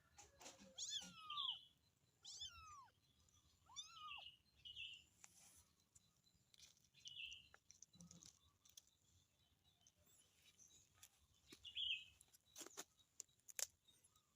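A kitten meowing to call for its mother: three high calls that rise and fall within the first four seconds, then a few shorter, weaker ones spaced out, with scattered light clicks in between.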